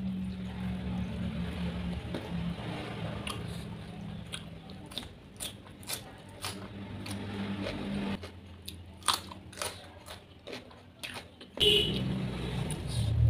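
Close-miked biting and chewing of a sauce-coated fried chicken wing, with many sharp mouth clicks and smacks as the meat and sauce are sucked off. Near the end comes a louder burst as fingers tear into the chicken on the plate.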